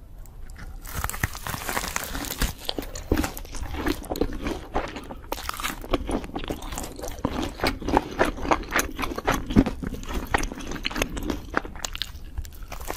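Crispy breaded fried chicken being bitten and chewed: many sharp, irregular crunches of the crust, growing dense about a second in.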